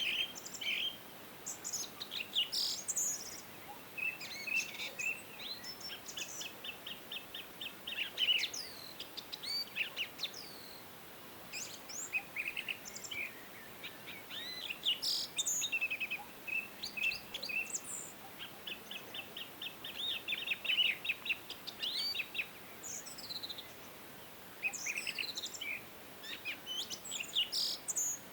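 Several songbirds singing at once: overlapping chirps, quick descending whistles and rapid dry trills, with brief pauses between phrases.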